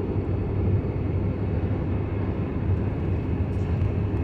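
Steady low road and engine drone inside a moving car's cabin.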